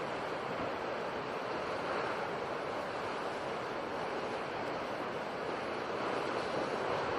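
Sea surf washing steadily, with slight swells in loudness about two seconds in and near the end.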